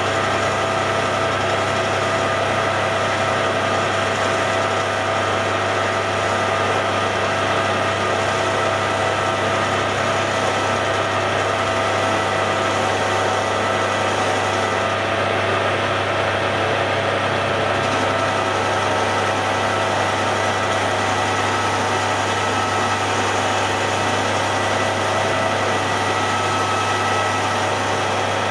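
Hare and Forbes AL335 metal lathe running at a steady speed, a constant mechanical hum with a low drone and several steady whining tones.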